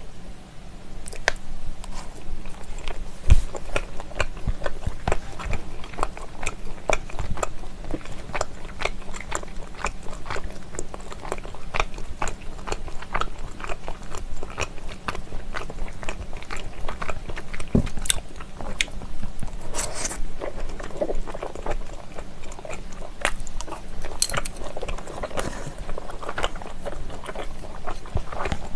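Close-miked chewing of stir-fried pork skin in a spicy sauce: many quick, irregular wet clicks and smacks as the chewy skin is bitten and worked. There is one heavier thump about three seconds in.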